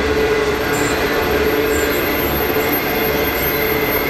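Freight train wagons rolling past on a tight curve: a steady, loud rumble of wheels on the rails, with a continuous squeal from the wheels grinding through the bend.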